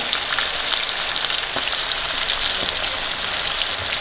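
Floured strips of deer heart frying in hot grease in a cast-iron skillet: a steady sizzle with fine crackling pops throughout.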